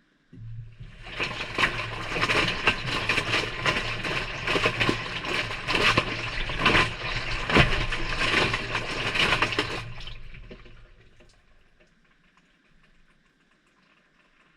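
Maytag front-loading washer's drum turning on a delicate cycle, heard from inside the drum: water and clothes slosh and splash for about ten seconds over a steady motor hum, then the sound dies away as the drum stops.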